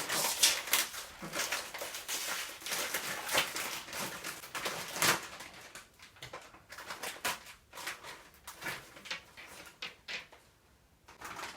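A foil potato-chip bag crinkling as it is opened and handled, with chips crunching. The crackling is dense for the first half and thins to scattered crackles after about six seconds.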